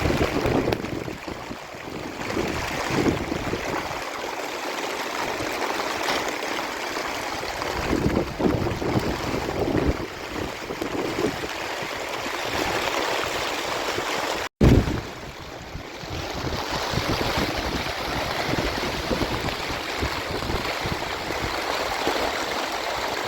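Heavy rain pouring down as a steady, loud hiss. About two-thirds of the way through, it cuts out for an instant, then comes back with a brief loud burst.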